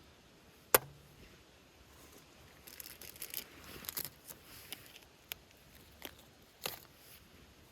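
Small things being handled at close range: one sharp click under a second in, then scattered light crinkling and ticking.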